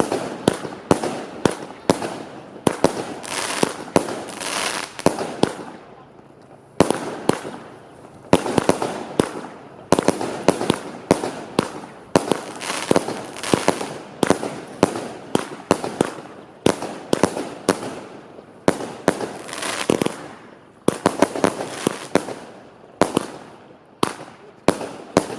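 Fireworks going off in quick succession: a long run of sharp bangs, about one or two a second, with crackling between them and a couple of brief lulls.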